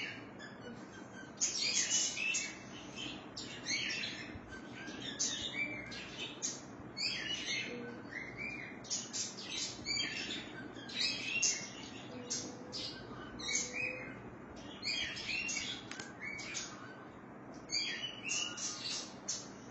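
Birds chirping busily: many short, high tweets in quick runs, one after another, over a faint low background hum.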